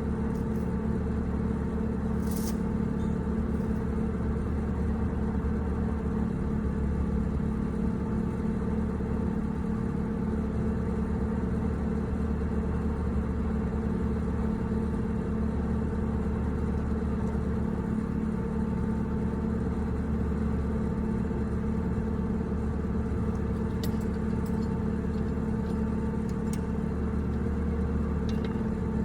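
A motor running steadily at an even speed, with a few faint light clicks and ticks over it.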